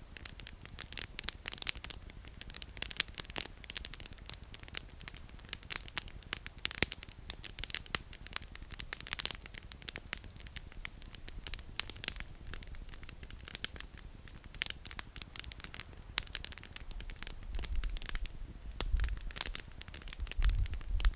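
Wood campfire crackling, with irregular sharp pops and snaps of burning firewood. A low rumble comes in near the end.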